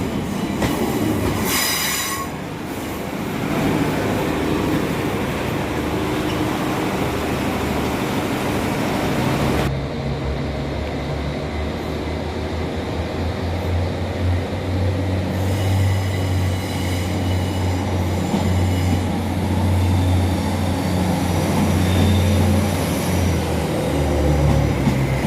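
Northern Ireland Railways diesel multiple unit at a station platform, its wheels scratching and squealing in high tones for the first couple of seconds and faintly again later. A steady low drone from its diesel engines grows strong through the second half.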